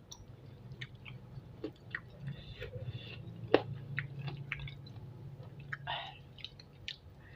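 Close-miked chewing of spicy chicken feet: irregular wet smacks and small sharp clicks and crunches of skin and cartilage, with a faint low hum underneath.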